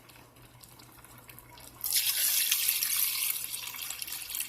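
Water running steadily, starting suddenly about two seconds in: water being measured out to add to the rice.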